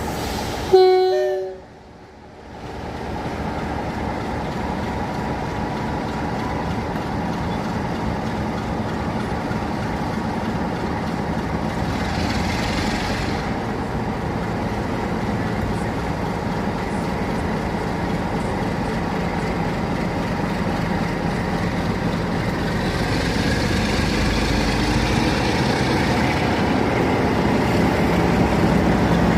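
BR Class 47 diesel locomotive: a short horn blast about a second in, then the engine running steadily and growing slowly louder toward the end.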